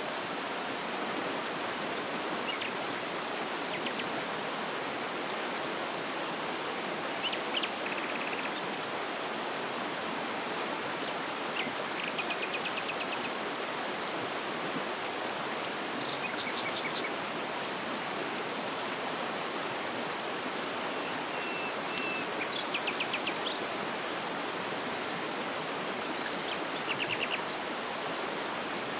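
Waterfall rushing steadily, with small birds calling over it in short rapid trills every few seconds.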